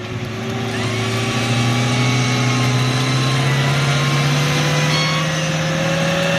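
A motor on an off-road 4x4 running steadily under load, with its pitch rising slowly over several seconds.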